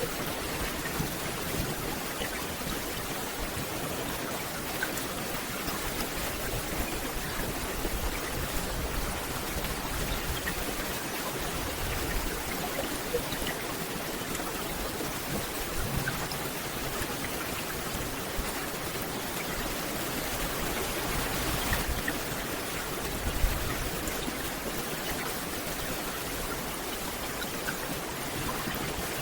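Steady rain falling on forest foliage: a dense, even hiss with scattered small drop ticks, and one sharper drop or tap about 23 seconds in.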